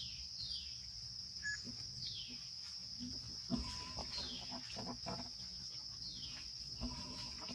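Steady high-pitched insect drone, with short falling chirps repeating every second or so. A few clicks and rustles are heard around the middle, the sharpest about halfway through.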